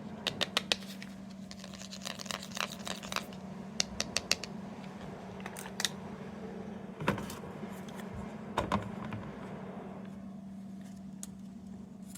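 Hands handling small plastic capsule toys and their packaging: a quick run of light clicks near the start, rustling and tapping a couple of seconds in, then scattered single clicks, over a steady low hum.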